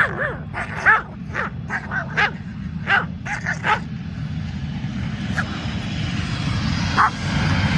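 A chihuahua barking repeatedly in short sharp yaps, several in the first four seconds and one more near seven seconds, over a steady low rumble. From about four seconds in, the engine noise of a jet aircraft swells and rises in pitch.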